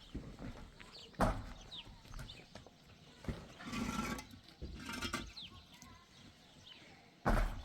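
Livestock calling, with one drawn-out call near the middle, amid short high chirps and scattered knocks, and a loud thump near the end.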